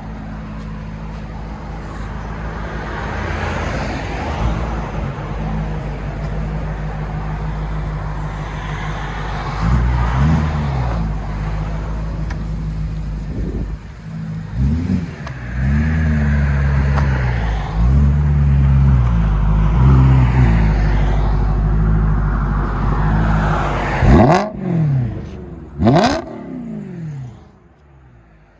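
BMW M3's 4.0-litre V8 through an X-pipe and Meisterschaft axle-back exhaust while driving: first a steady cruise, then revs rising and falling repeatedly under acceleration. Two quick, sharp rev rises come near the end, and then the sound drops away.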